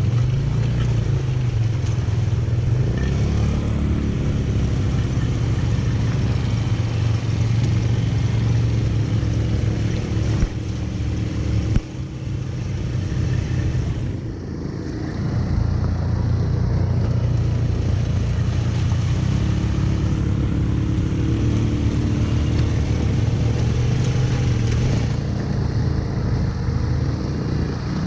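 ATV engine running while riding, its pitch rising and falling with the throttle. It eases off about halfway through, with a single knock, then picks up again.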